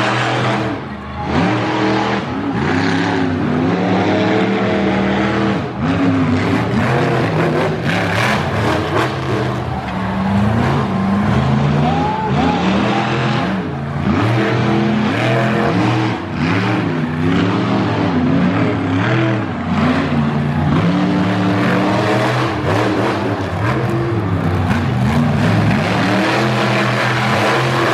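Monster truck engine revving hard, its pitch climbing and dropping again every second or two, with a few brief knocks.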